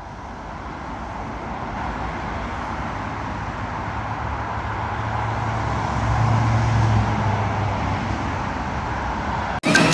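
Street traffic: steady road noise with a vehicle's engine hum that swells, loudest about six to seven seconds in.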